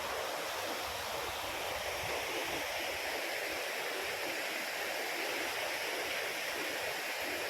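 A river rushing: a steady, even wash of flowing water with no breaks.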